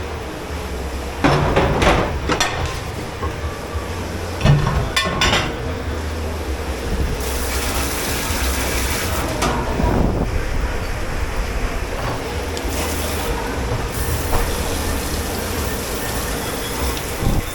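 Dishes and pans clattering at the dishwashing sink in two short bursts, over a steady low machine hum, then running water hissing from about seven seconds in.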